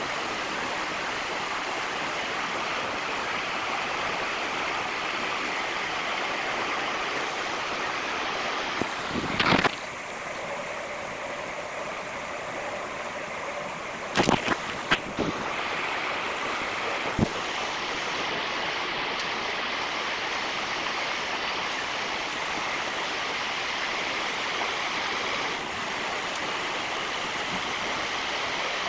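A steady rushing noise, with a few short knocks about a third of the way in and around the middle.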